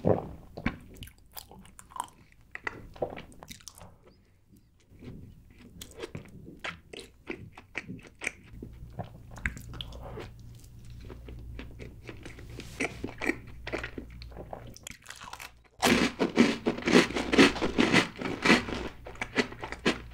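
Close-miked eating sounds: soft chewing and mouth clicks on a bite of chocolate cake, then, about three-quarters of the way in, a sudden switch to much louder, dense crunching.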